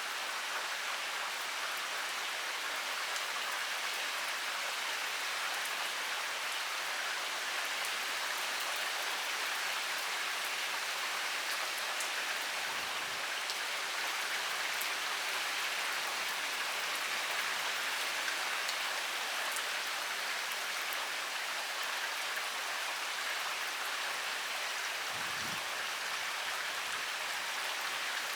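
Heavy rain pouring steadily: a dense, even hiss of rainfall with scattered sharper ticks of individual drops.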